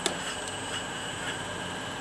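Steady high whine of a radio-controlled model construction machine's small electric motor, with a sharp click just after the start and a few fainter ticks.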